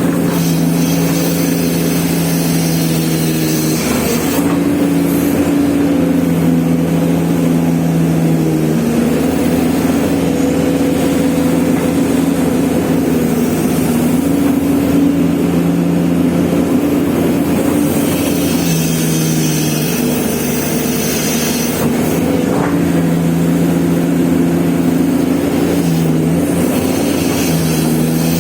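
Diesel engine of a Komatsu excavator running steadily under working load. Its note shifts between a lower and a higher pitch every few seconds as the machine works.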